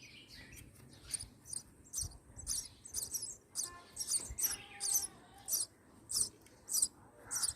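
House sparrows chirping: a steady run of short, high chirps, about two a second.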